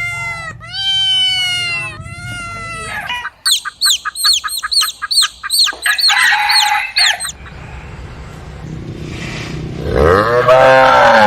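Chickens: a rooster crowing in long, drawn-out notes, then a quick run of short, high, falling calls, about six a second. A lower, arching call comes near the end.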